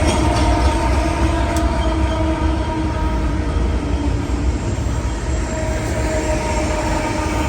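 Train rolling past, a steady low rumble of rail cars on the track with faint steady ringing tones above it, easing slightly toward the end.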